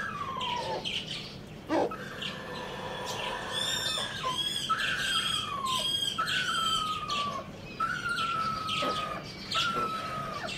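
Small birds calling: a series of short whistled notes, each sliding down in pitch, about one every second and a half, with higher, quick chirps in the middle stretch.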